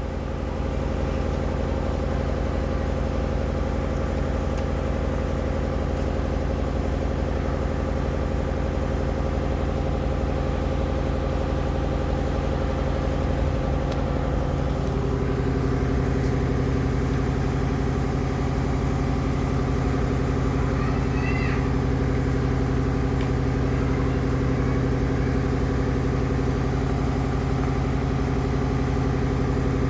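A steady machine hum made of several even tones, which shift in pitch about halfway through.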